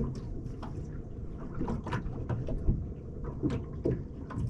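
Irregular light knocks and clicks over a low, steady rumble, typical of a small boat's hull and gear shifting at anchor.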